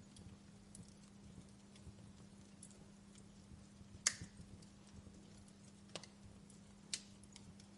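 Wood fire crackling quietly in a fireplace: sparse pops and snaps, the loudest about four seconds in and two smaller ones near the end, over a faint steady hum.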